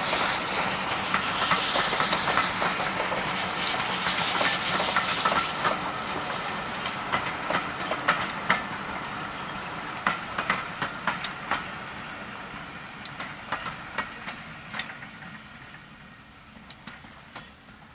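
Passenger coaches of a steam-hauled train rolling past, a steady rumble fading as the train draws away. From about a third of the way in, the wheels click sharply over the rail joints in pairs and groups.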